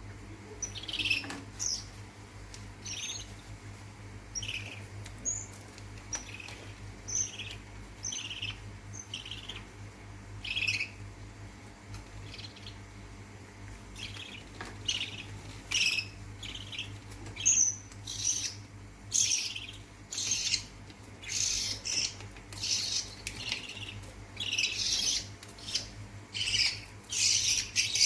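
Lovebird chicks chirping in short, high calls, with a steady low hum underneath; the calls come faster and louder in the second half.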